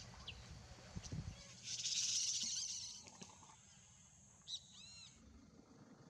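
Faint outdoor ambience with bird calls. A high hiss swells about two seconds in and fades, then a quick cluster of short, high, arching chirps comes about three-quarters of the way through.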